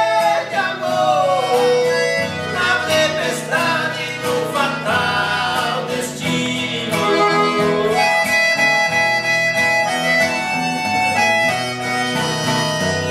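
Song performance: voices singing over instrumental accompaniment, then from about eight seconds in a reed instrument such as a harmonica or accordion carries the melody in held notes.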